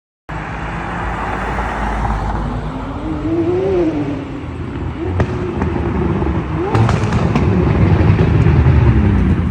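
McLaren 600LT's twin-turbo V8 exhaust: the engine note rises and falls in a rev about three to four seconds in, with sharp exhaust pops and crackles around five and seven seconds, then a deeper rumble building near the end.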